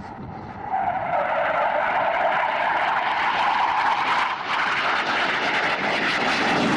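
Jet noise from a U.S. Navy F/A-18 Hornet's twin turbofan engines as it flies a tight, high-g level turn. The loud rushing noise jumps up about a second in and holds steady.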